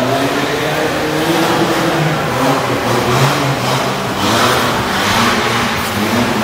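Car engine running and revving, its pitch rising and falling unevenly.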